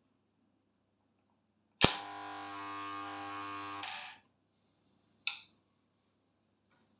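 Homemade microwave-oven-transformer spot welder firing. A sharp snap as the current switches on is followed by a steady electrical buzz for about two seconds while it welds, which then cuts off, and a single sharp click comes about a second later.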